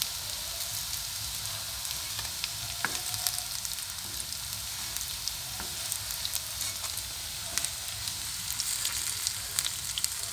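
Cabbage fritters sizzling steadily in shallow oil in a nonstick pan, with scattered crackles of spitting oil and a few scrapes and taps of a slotted spatula against the pan as the fritters are lifted out.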